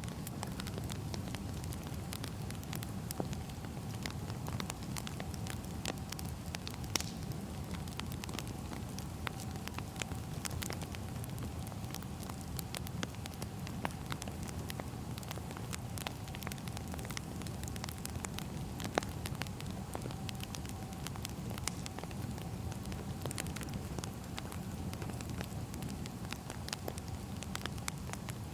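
Wood fire burning: a steady low rumble with irregular sharp crackles and pops scattered throughout.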